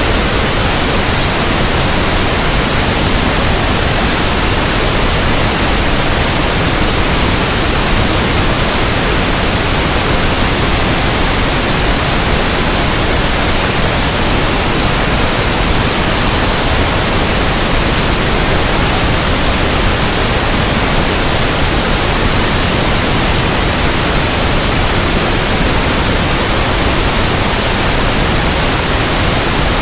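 Steady pink noise: an even, unchanging hiss that fills the whole range from deep to high.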